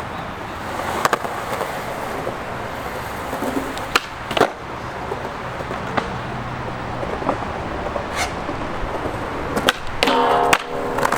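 Skateboard wheels rolling on concrete, broken by several sharp clacks of the board popping and hitting the ground.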